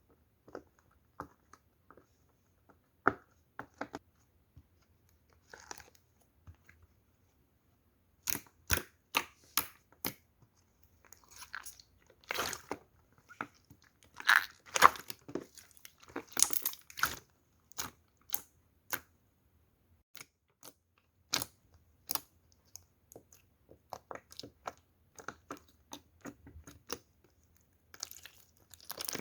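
Clear slime pressed and squished into a silicone pop-it toy, making irregular sharp pops and short crackly squelches with brief quiet gaps between them.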